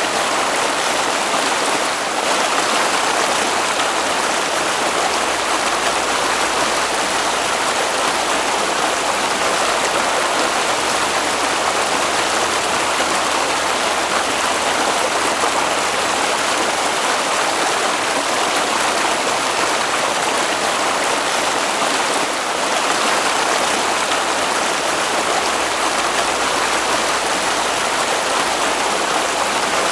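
Water flowing in a stream, a steady, even noise that holds unchanged throughout.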